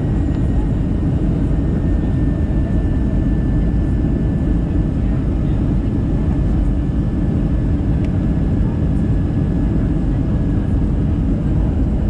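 Steady cabin noise inside an Airbus A320-214 descending toward landing: the low rush of airflow and the CFM56 engines, with a faint thin high whine that sinks slightly in pitch.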